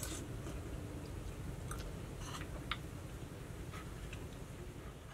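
Close eating sounds: chewing soft, sticky glutinous rice balls, with a few short clicks of a spoon against a ceramic bowl.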